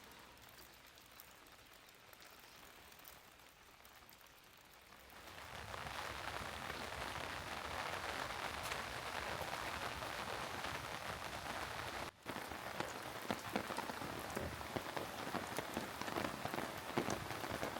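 Steady rainfall, faint at first, then much louder from about five seconds in, with a brief break near twelve seconds. In the second half, sharp close drops stand out over the downpour.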